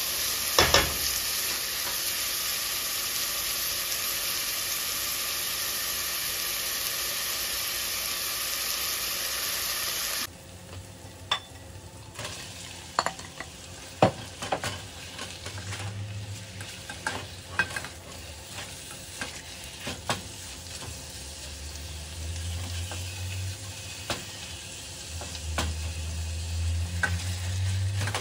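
Diced onion and red bell pepper sizzling in a stainless steel pot as a spatula stirs them, a steady hiss. About ten seconds in it drops suddenly to a quieter sizzle of raw ground meat cooking with the vegetables, with the spatula scraping and knocking against the pot many times.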